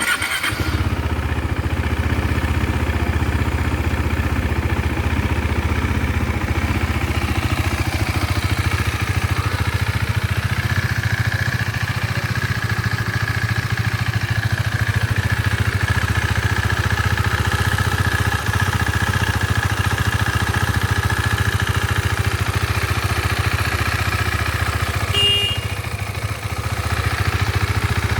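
KTM Duke 390's single-cylinder engine idling steadily through its exhaust.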